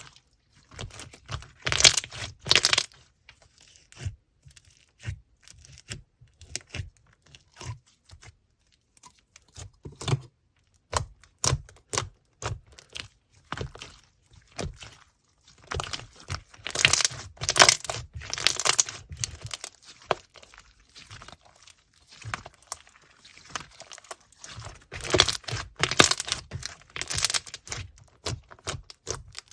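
Slime being squeezed, poked and stretched by hand, giving a long run of sticky clicks and small crackling pops. Louder clusters of crackling come a couple of seconds in, around the middle and near the end.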